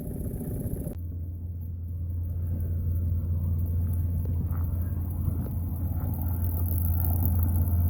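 Boat motor running steadily with a low hum, slowly growing louder.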